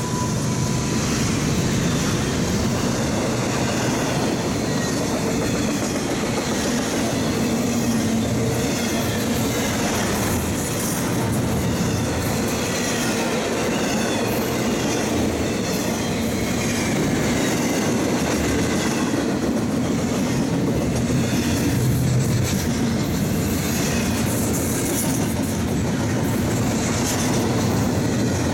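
Intermodal freight train's container cars rolling past close by: steady heavy rumble of steel wheels on rail with the clickety-clack of wheels over rail joints and faint wavering wheel squeal.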